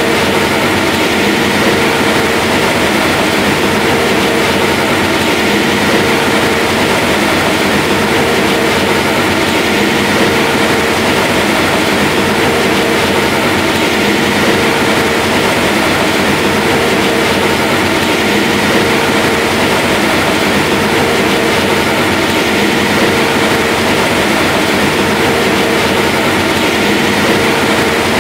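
Heavy harvest machinery running steadily at a constant load: a continuous mechanical drone with steady tones and a faint regular pulsing.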